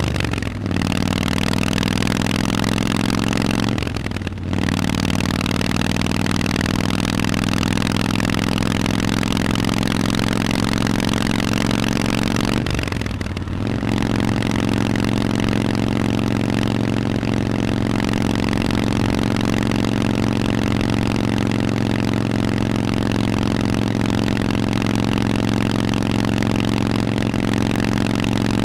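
Harley-Davidson Forty-Eight's 1200 cc air-cooled V-twin running through Vance & Hines aftermarket exhausts while riding. The exhaust note dips briefly three times early on and climbs again after each dip, as the bike is shifted up through the gears, then settles into a steady cruise.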